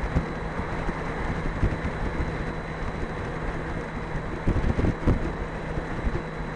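Highway wind rushing and buffeting the microphone on a Honda Gold Wing running at speed with its windshield in the lowest setting, with a steady low engine and road drone underneath. The buffeting comes in uneven gusts, heaviest about four and a half to five seconds in.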